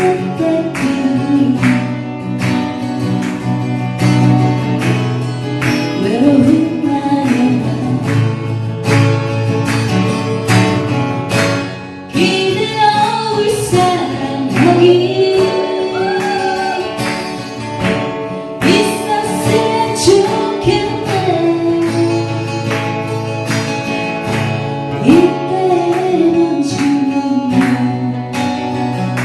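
Acoustic guitar strummed in a steady rhythm, accompanying a singer's song.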